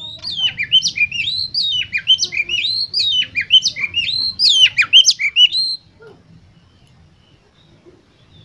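Oriental magpie-robin (kacer) singing: a fast, varied run of loud whistled notes sweeping up and down, which stops abruptly about six seconds in. It is used as a call recording to set competition birds singing.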